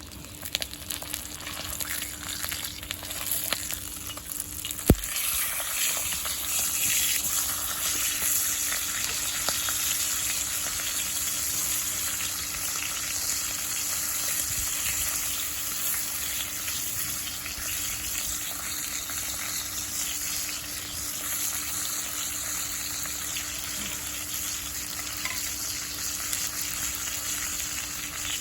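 Meat sizzling in a Turk Classic forged-iron frying pan, a steady hiss of frying fat. A sharp knock comes about five seconds in, and the sizzle turns louder just after it.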